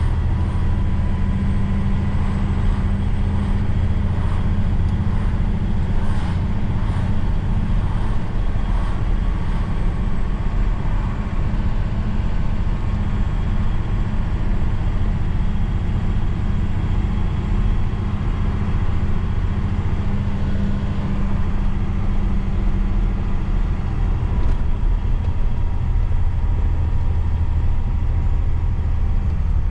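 Truck engine running steadily under way, a deep, even drone, with a few light clicks or rattles about a quarter of the way in.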